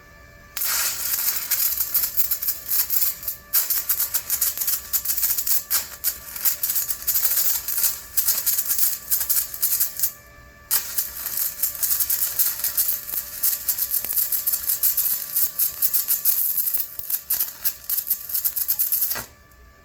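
Stick-welding arc crackling as a shortened electrode stub, its broken flux knocked off, burns onto the work. Three runs of dense crackle, with a brief break about three and a half seconds in and a longer one about ten seconds in.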